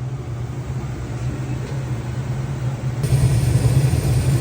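Gas furnace running with a steady low hum; about three seconds in it gets louder, with a broad rushing sound added.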